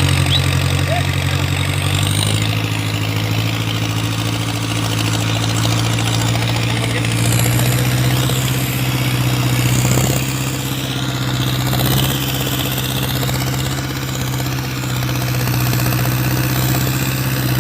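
Engine of a 4x4 tractor running steadily at idle, its note shifting slightly about two seconds in.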